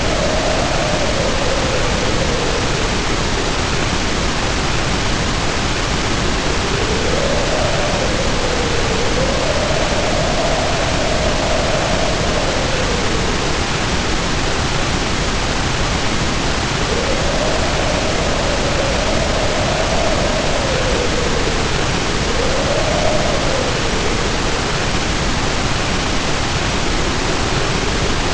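Storm ambience: wind howling in several swells that rise and fall in pitch, over a steady, even rush of heavy rain.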